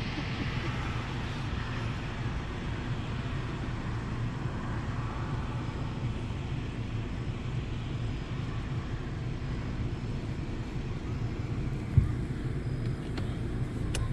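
Automatic car wash running around a car, heard from inside the cabin: a steady low rumble with a hiss of spray that fades through the first half, and a single thump about twelve seconds in.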